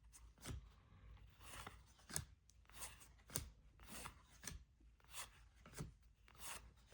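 Faint, short flicks and taps of trading cards being handled one at a time, roughly one every half second to a second.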